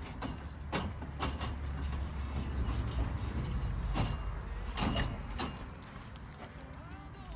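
Rolling scaffolding loaded with timber beams being pulled across the floor: a steady low rumble from the casters with several sharp clanks and knocks from the frame, stopping about six seconds in.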